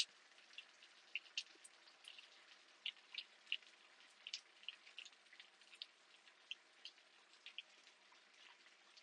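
Light rain: scattered raindrops tapping irregularly, a few faint ticks a second, over a soft hiss.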